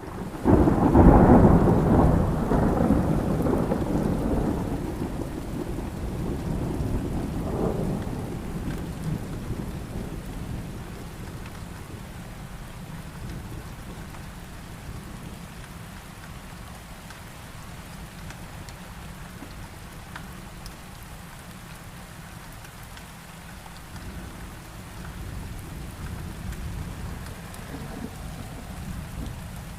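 Thunderstorm: a loud thunderclap breaks about half a second in and rumbles away over several seconds, with a second crack around seven seconds in, over steady heavy rain; weaker rumbles return near the end.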